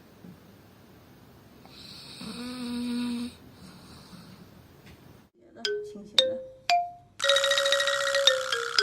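A pet's single drawn-out snore-like breath about two seconds in. After a cut, a few plucked notes step down in pitch and lead into bright, busy music with many chiming notes.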